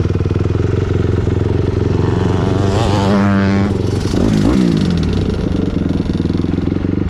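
Dirt bike engine running steadily close by. Another dirt bike revs up and passes about three seconds in, its pitch climbing and then falling away quickly.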